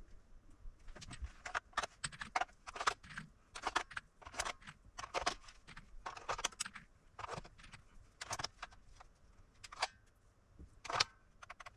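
Irregular clicks, clinks and rattles of small metal parts and hand tools being handled during work on the power station.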